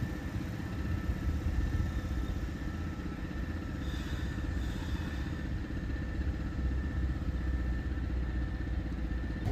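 Kintetsu 2000 series electric train pulling slowly into the station: a steady low rumble with a faint steady whine, and a couple of brief high squeals around four seconds in.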